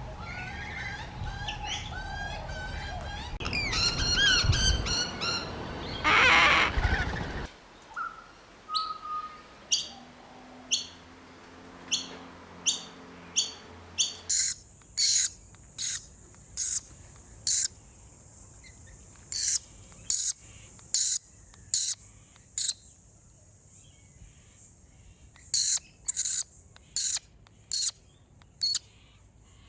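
Hungry baby birds begging for food: several seconds of loud, dense squawking calls, then a long run of short, sharp, high chirps repeated about once or twice a second, in groups.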